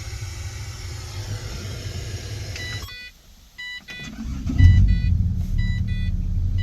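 A steady low hum cuts off about three seconds in. Repeated dashboard warning chimes follow, and about a second and a half later the Holden Commodore's engine fires and settles into a steady idle. The car has started after a no-start fault.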